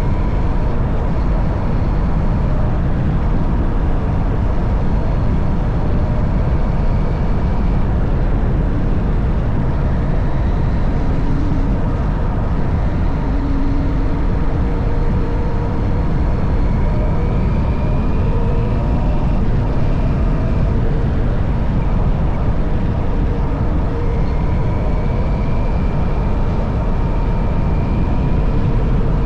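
Honda CB190R motorcycle's single-cylinder engine running at steady riding speed, heard under a dense, even low rumble of wind and road noise. A faint rising whine comes in twice in the second half.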